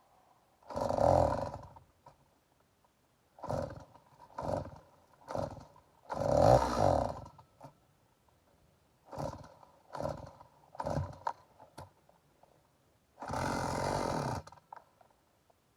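Stihl MS 290 two-stroke chainsaw being pull-started over and over: a string of short bursts, the engine catching for a moment and dying each time. It won't keep running, and the owner suspects it is flooded.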